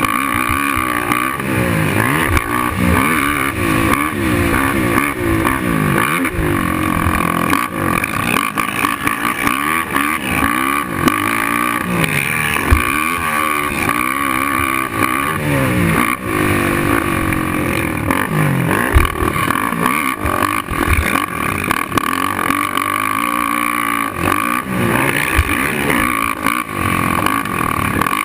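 Suzuki LTR 450 quad's single-cylinder four-stroke engine revving up and down over and over as it is ridden around a motocross track. A couple of sharp knocks come through near the middle.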